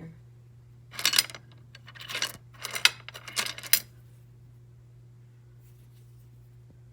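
Small stones clinking and clattering against each other and a hard surface as they are handled, in several bursts of clicks over about three seconds.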